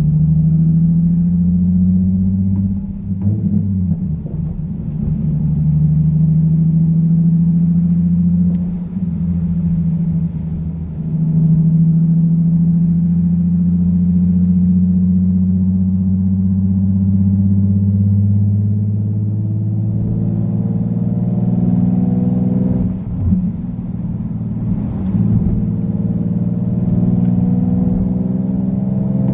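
Nissan Fairlady Z (Z34) VQ37 V6 engine droning under way, its note climbing slowly in pitch and dropping back a few times, as at upshifts.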